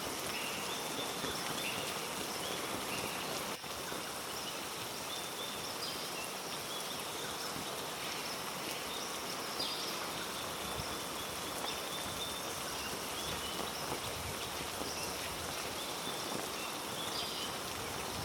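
Heavy rain falling steadily through rainforest, an even hiss, with scattered short high-pitched calls from small animals.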